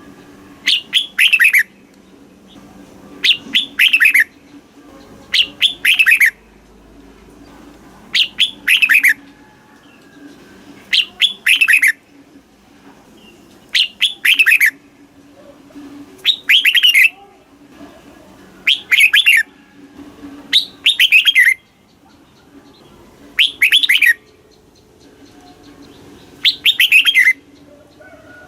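Red-whiskered bulbul singing: short, loud phrases of a few quick falling whistled notes, repeated about every two and a half seconds, roughly eleven times.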